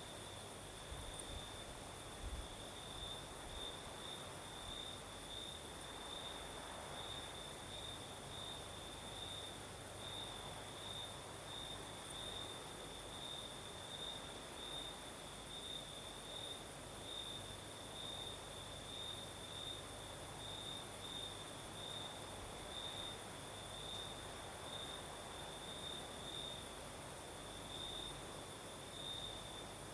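Crickets chirping at night: a steady, high, evenly pulsing trill that keeps up without a break, with fainter higher insect buzzing above it.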